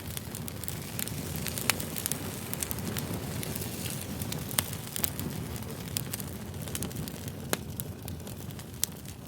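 Wood campfire burning: a steady low rush of flames with sharp crackles and pops scattered throughout, a few louder pops standing out.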